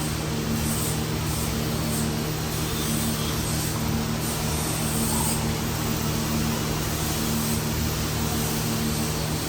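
An engine running steadily at a constant speed, giving an even hum that does not change pitch.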